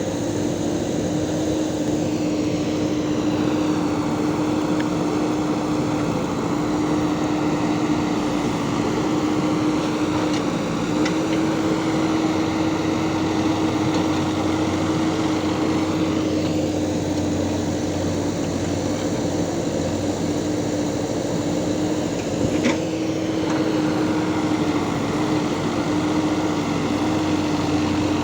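Backhoe loader's diesel engine running steadily, its pitch holding nearly level with small shifts, and a brief knock about 22 seconds in.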